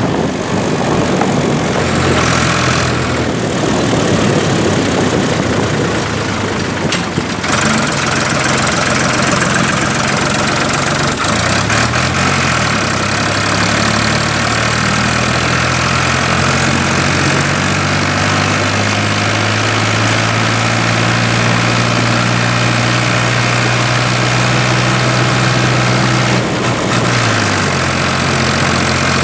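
Ford 3000 tractor's three-cylinder engine running while the tractor is driven with a loaded trailer. Engine speed dips and picks back up about a third of the way in, and drops briefly again near the end.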